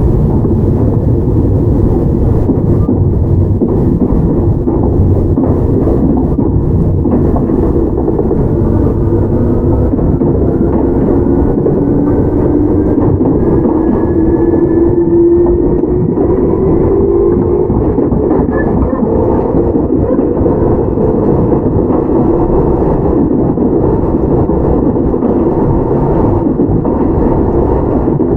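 Onboard running noise of a Toyama Chiho Railway 17480-series electric train, a former Tokyu 8090 with field-chopper control: a steady loud rumble of wheels and car body on the track. Partway through, a motor whine rises slowly in pitch for several seconds, then fades.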